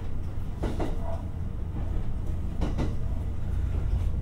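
Onboard running sound of a 227 series electric train: a steady low rumble, with a short clack from the wheels about every two seconds.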